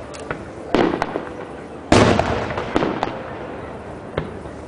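Aerial fireworks shells bursting, four main booms with the loudest about two seconds in, each followed by a trailing rumble and some lighter crackles.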